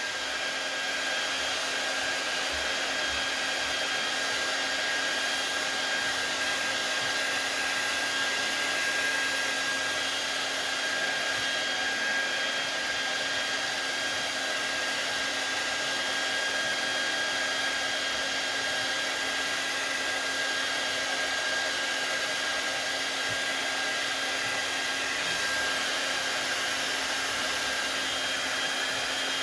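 Handheld hot-air blower running steadily, a constant rushing blow with a thin fan whine, heating vinyl wrap film to soften it for smoothing down.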